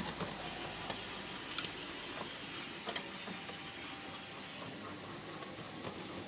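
Steady background hum of a model railway exhibition room, with a few short sharp clicks about one, one and a half, and three seconds in.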